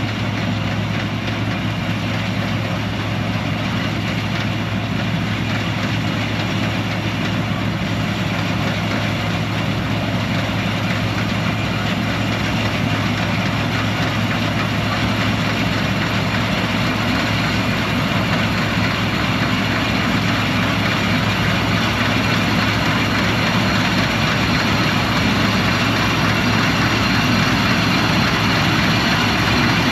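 Combine harvester running steadily: a continuous engine drone with a strong low hum, growing slightly louder toward the end.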